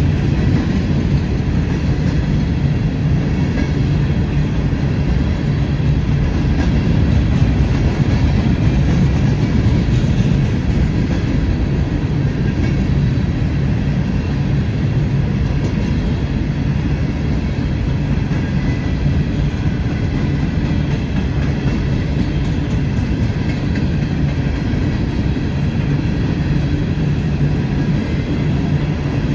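Empty coal train's hopper cars rolling past, a steady, loud rumble of steel wheels on the rails with a faint clickety-clack.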